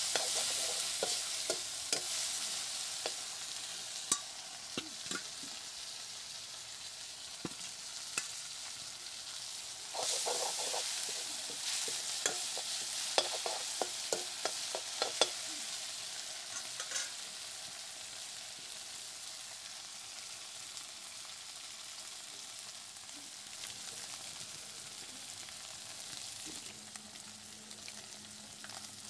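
Sliced onions sizzling in hot oil in a metal kadai while a metal spatula stirs and scrapes the pan, with a run of clinks and scrapes about ten to fifteen seconds in. The sizzle slowly grows quieter toward the end.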